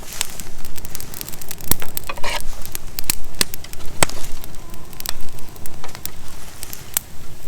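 Dry cut twigs and small branches being handled and packed into a bag: a string of irregular crackles and snaps, with no saw running.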